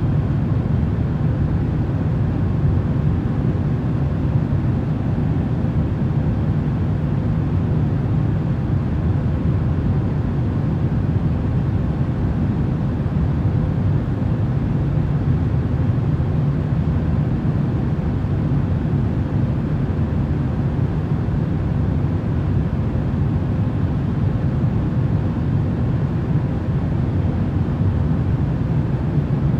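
Steady, unbroken rushing noise of a white-noise sleep track, heaviest in the low rumble, with faint steady hums above it.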